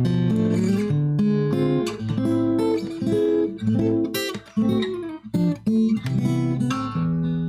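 Guitar playing an instrumental passage, a run of plucked melody notes over low bass notes.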